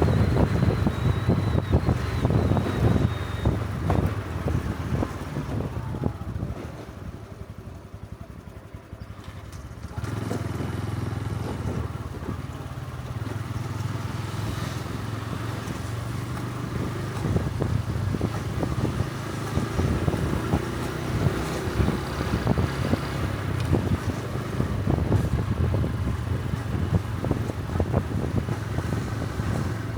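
Honda Super Cub C125's small single-cylinder engine running while riding, with wind buffeting the helmet-mounted microphone. The engine sound fades down about six seconds in, then comes back up abruptly about ten seconds in and runs steadily.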